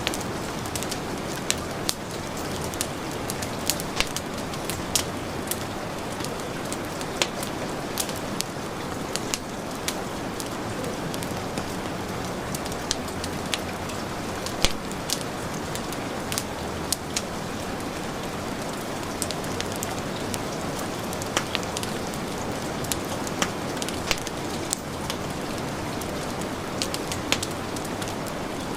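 Heavy rain falling in a steady hiss, mixed with a wood fire crackling: frequent sharp pops and snaps scattered throughout, a few standing out louder.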